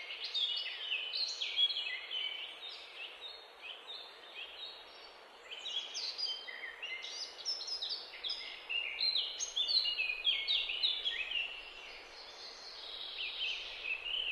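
Small birds chirping and twittering in a busy, overlapping chorus over a steady background hiss.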